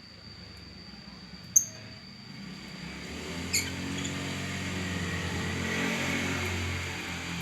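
A road vehicle passing by: its low engine drone builds from about two and a half seconds in, is loudest around six seconds and eases off near the end. Before it come two short, high bird chirps, about one and a half and three and a half seconds in.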